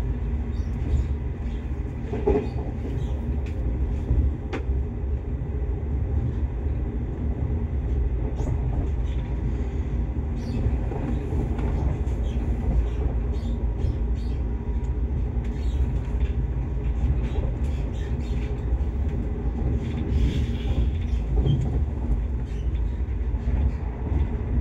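Steady rumble of a passenger train running along the track, heard from inside the carriage, with a few short knocks and clicks.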